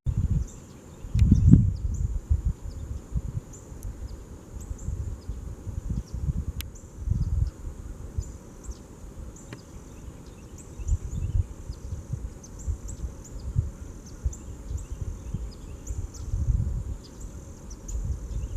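Steady high-pitched insect chorus, with irregular gusts of wind buffeting the microphone as low rumbles.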